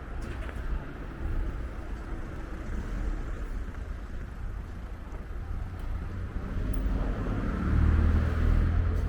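Road traffic on a city street, with a motor vehicle passing close and loudest near the end.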